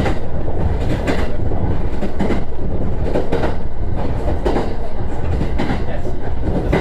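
JR East E129 series electric train running along the line, heard from inside the passenger car: a steady low rumble with wheel clacks over rail joints roughly once a second.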